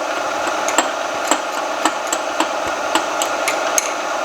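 Milling machine's drill spindle running into a hardened crankshaft, with sharp, irregular clicks about twice a second over a steady machine noise as the drill chips at a broken-off piece of drill bit stuck in the hole.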